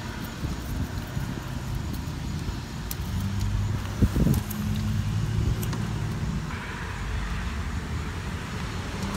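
Steady low hum of a motor vehicle engine running, with a short knock of handling noise about four seconds in.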